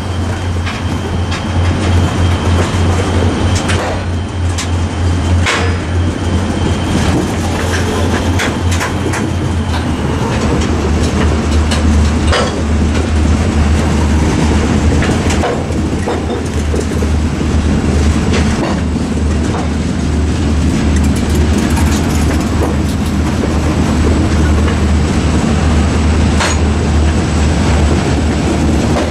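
A freight train of hopper cars rolling past close by: a steady deep rumble, with sharp wheel clicks and clanks over the rail joints.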